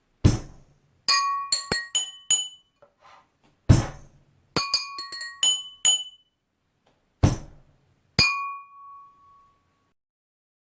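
Three glasses struck in a rhythmic pattern as percussion, each ringing at its own pitch, with a heavy foot stamp about every three and a half seconds. A last glass strike near the end rings out and fades away.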